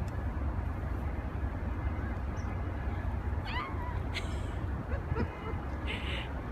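Blizzard wind buffeting the microphone, a steady low rumble, with a brief high falling squeal about three and a half seconds in.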